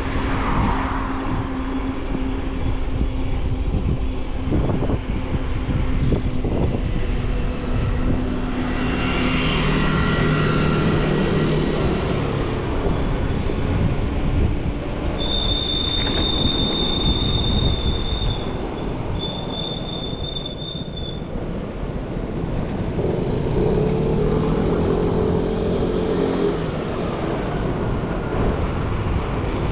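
Continuous wind and rolling-tyre rumble from a Cube electric mountain bike being ridden. For several seconds around the middle there is a steady high whine.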